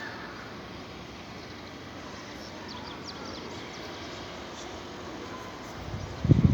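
Steady outdoor hiss with a few faint, short bird chirps about midway. Near the end comes a sudden loud, low buffeting rumble, like wind or handling on the microphone.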